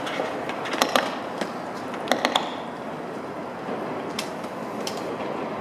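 Sotetsu 9000 series electric train approaching slowly, a steady low rumble broken by sharp clicks as its wheels cross the rail joints and points: two about a second in, a quick run of three a little after two seconds, and single ones near four and five seconds.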